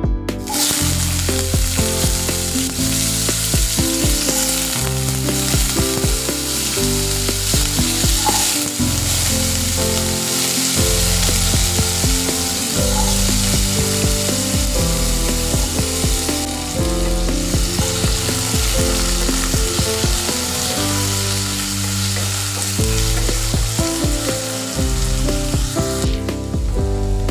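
Diced potatoes sizzling steadily in hot oil with mustard seeds in a non-stick kadai. The sizzle starts abruptly just after the start and stops near the end, with background music underneath.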